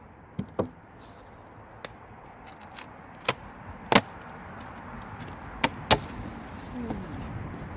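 A run of sharp knocks and clicks from a beehive nuc box being handled, its lid and parts clacking against each other. The two loudest knocks come about four and six seconds in.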